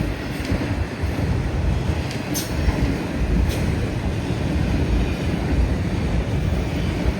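Freight train cars rolling past, a steady rumble of wheels on rail with a couple of brief high squeaks, and strong wind buffeting the microphone.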